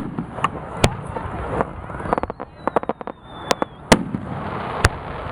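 Aerial fireworks display: shells bursting in sharp bangs, five of them, with fast crackling bursts in between and a thin whistle sliding downward in pitch in the middle.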